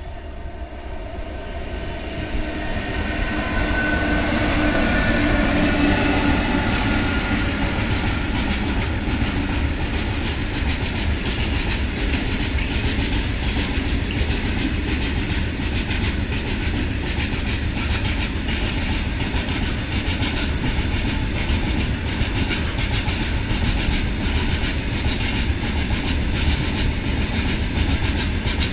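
Indian Railways WAG-7 electric locomotive approaching with a humming tone that grows louder over the first few seconds. A long rake of covered cement wagons follows, rolling steadily past with a dense rumble and the rhythmic clickety-clack of wheels over rail joints.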